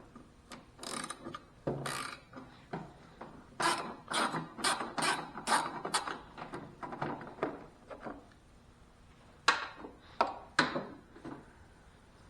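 Hand ratchet clicking in short runs as bolts are worked loose on a zero-turn mower, about four or five clicks a second at its busiest, with two sharper knocks of tools or parts later on.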